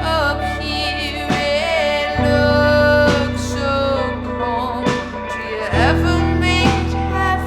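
A band playing an instrumental passage: long held bass notes that change twice, wavering guitar lines above them, and a drum hit roughly every two seconds.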